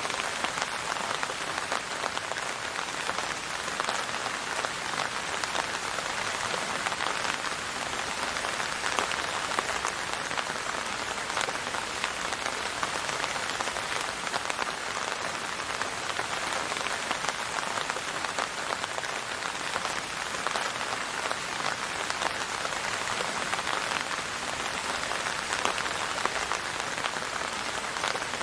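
Steady rain falling on a surface, an even hiss dotted with countless small drop impacts.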